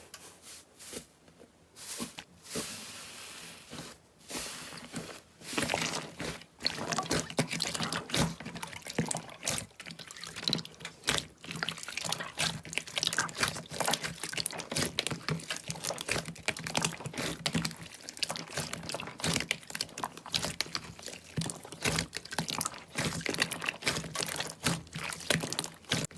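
Slime being poured and squished by hand: wet, sticky clicking and popping. It grows dense and continuous after about five seconds.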